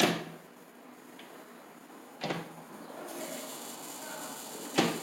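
High-voltage spark jumping a gap with a sharp snap three times, about two and a half seconds apart, with a faint hiss between the later snaps.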